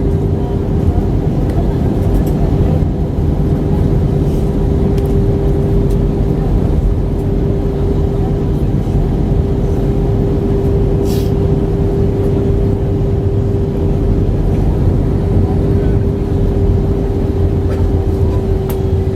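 Steady cabin noise inside an Airbus A320 airliner: constant engine and airflow noise with a steady mid-pitched hum running through it.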